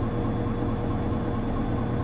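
Diesel engine of a Hino Rainbow HR (KL-HR1JNEE) city bus running steadily, heard from inside the passenger cabin as a low drone with a faint steady whine above it.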